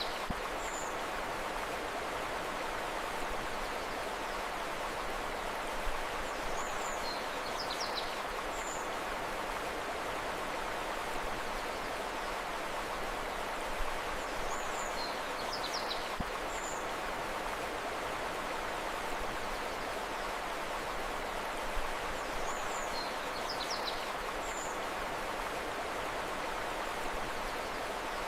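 Steady rushing river water, with a short bird call of a few high chirps that recurs about every eight seconds.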